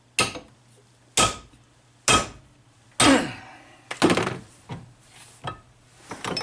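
Metal struck hard four times, about a second apart, the last ringing briefly, then a few lighter knocks and clinks: a hammer knocking the ground-down 10mm Allen bit, with the work clamped in the vise.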